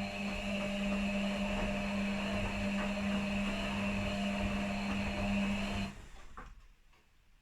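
Washing machine running on its quick wash program, a steady motor hum with a whine above it, which stops abruptly about six seconds in, leaving a few faint clicks.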